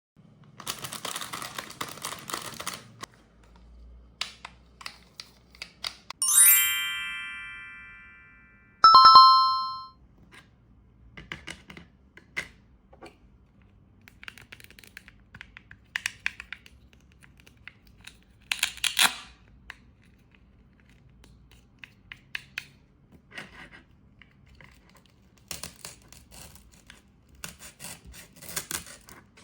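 Crinkly rustling of plastic, then two bright chime notes that ring out and fade. After them come scattered small clicks and scrapes of plastic toy fruit and a toy knife being handled and cut.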